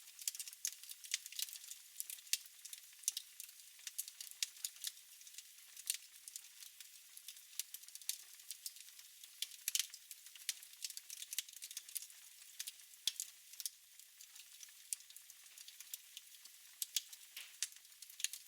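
Wood fire crackling in a fireplace: irregular sharp pops and snaps over a soft hiss, with a few louder pops, one about ten seconds in.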